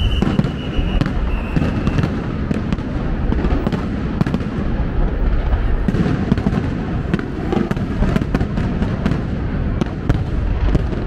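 A fireworks display going off without a break: a continuous rumble of shell bursts with many sharp cracks and pops.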